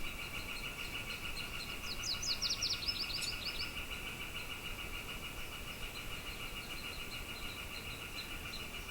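A songbird gives a quick run of rapid, falling high notes about two seconds in, over a steady pulsing chorus. Faint, evenly spaced high chips follow in the second half.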